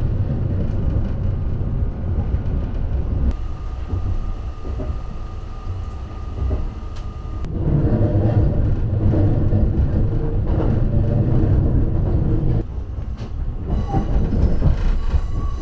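Running noise of the Saphir Odoriko train heard from inside the car: a steady low rumble that grows louder for about five seconds around the middle, with a faint steady whine for a few seconds before that.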